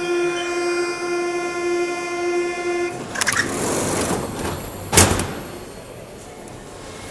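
Mexico City Metro train's door-closing warning: a steady buzzing tone that stops about three seconds in, followed by the doors sliding shut with a loud bang about five seconds in.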